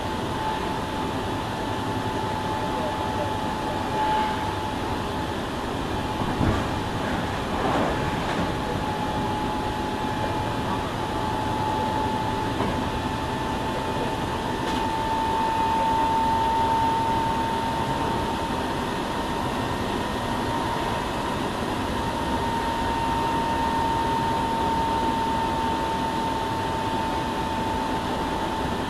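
Running noise inside a Hankyu 7000-series electric train car: a steady rumble of the train under way, with a steady high whine held throughout and a few faint knocks early on.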